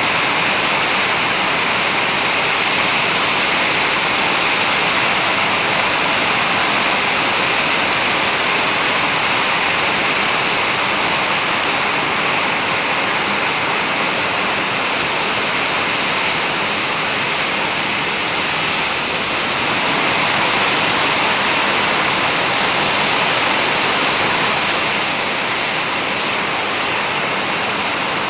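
Jet engines, likely the Patrouille de France's Dassault/Dornier Alpha Jets, running steadily on the ground with a high-pitched turbine whine over a steady rush of exhaust noise.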